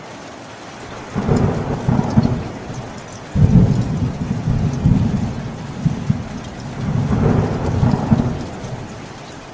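Thunder rumbling over steady rain. A rolling peal builds about a second in, a sharper, louder clap breaks in about three seconds in, and the rumble rolls on before dying away near the end, with the rain hiss continuing underneath.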